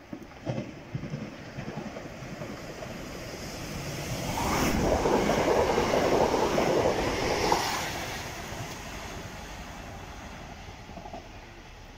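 A passenger train passing beneath a station footbridge without stopping: the sound builds over a few seconds, is loudest for about three seconds in the middle, then fades away.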